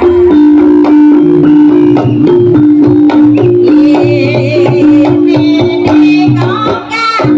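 Jaranan accompaniment music: fast, steady drumming under a sustained, organ-like keyboard tone that alternates between two notes, with a melodic line rising above it in places.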